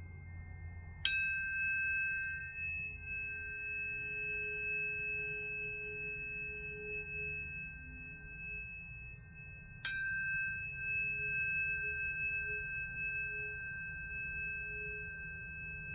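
Planetary tuning forks struck twice, about a second in and again near ten seconds, each strike a sharp metallic clink. Several pure tones then ring on: the higher overtones fade within a few seconds and the lower tones keep ringing steadily.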